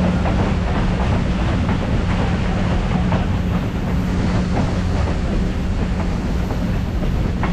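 Passenger train cars rolling along the track, heard from an open-air excursion car: a steady low rumble and hum with light wheel clatter over the rails.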